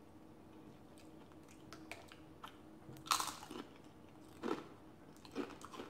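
Close-up crunching and chewing of tortilla chips: a quiet start, then a few crisp bites spaced irregularly, the loudest about three seconds in and another about four and a half seconds in.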